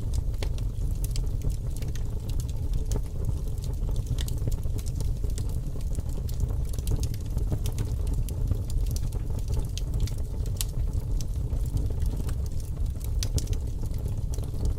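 Fire crackling: a steady low rumble with scattered sharp pops and snaps throughout.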